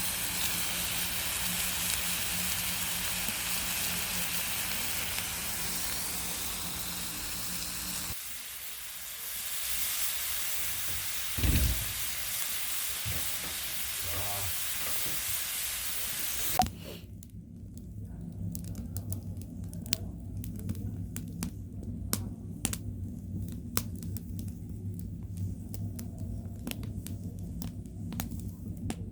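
Pork belly sizzling on a cast-iron cauldron lid over a wood fire: a dense, steady hiss, with a dull thud about halfway through. About two-thirds of the way in, the sound switches abruptly to burning firewood crackling and popping in sharp, irregular snaps over a low rumble.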